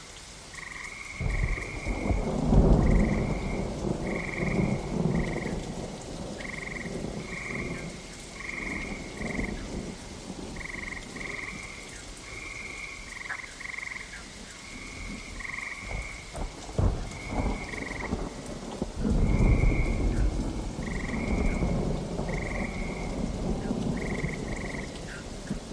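Rain with frogs croaking steadily, short calls repeating about once or twice a second. Thunder rolls in about a second in, cracks sharply a few times past the middle, then rumbles heavily again about three quarters of the way through.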